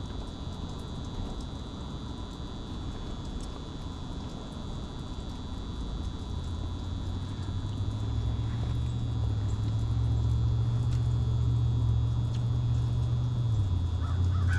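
Gas furnace's motor running with a steady low hum that grows louder about halfway through and shifts down in pitch near the end.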